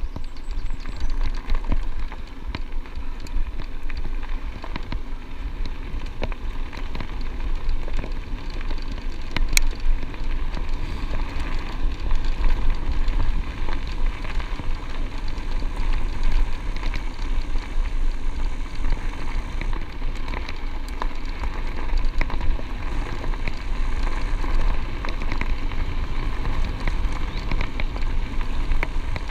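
Bicycle tyres rolling over a loose gravel track, a steady crackle without letup, with a low rumble under it.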